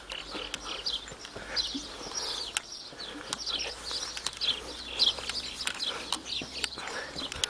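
Small birds chirping: many short, high chirps scattered irregularly, several a second at times.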